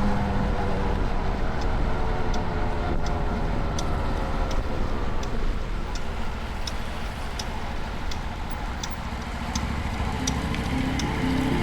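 Honda Dax 125's single-cylinder engine running as the motorcycle slows, its pitch falling, over a dense low rushing noise. A sharp tick repeats about every three-quarters of a second from about a second and a half in.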